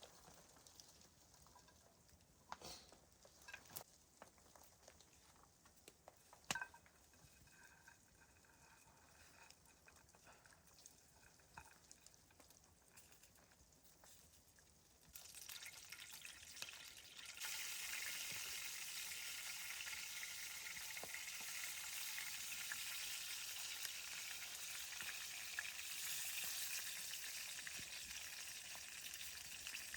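A few faint clicks and knocks, then about halfway in a steady sizzling hiss starts abruptly and grows louder a couple of seconds later.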